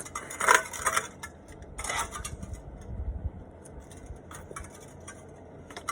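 Metal clattering and clinking: a loud clatter about half a second in, another around two seconds, a low rumble near three seconds and a sharp click near the end.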